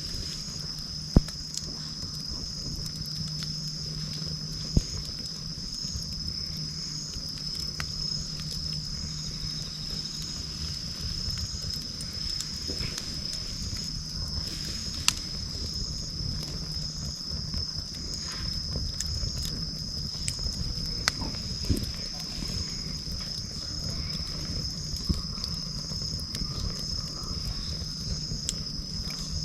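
Wood campfire burning, with a handful of sharp crackling pops, over a steady high chirring of insects.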